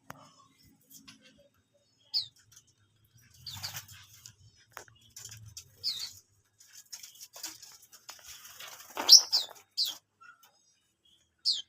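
Small caged birds giving short, sharp, falling chirps now and then, loudest in a quick cluster about nine seconds in, with wings fluttering and rustling between them.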